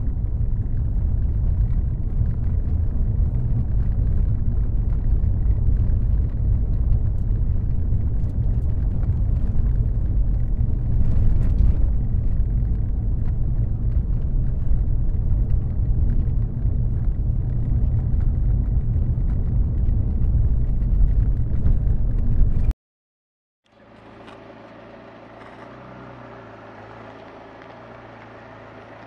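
McLaren supercar engine giving a loud, deep, steady low rumble that cuts off abruptly about 23 seconds in. After a second of silence, a much quieter engine idle with a steady hum follows.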